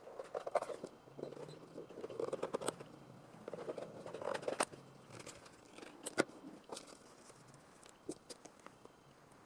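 Irregular clicks, taps and scraping from hand work on sheet metal, with a sharper knock about six seconds in.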